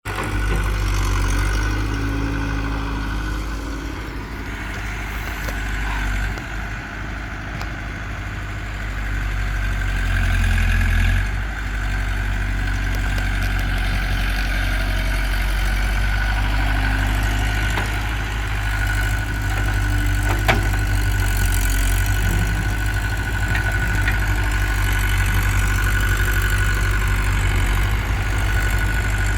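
Diesel engines of tractors and a JCB backhoe loader running steadily while sand is loaded, a low drone with a steady high whine over it. The engine note swells briefly about ten seconds in, and a single sharp knock comes about twenty seconds in.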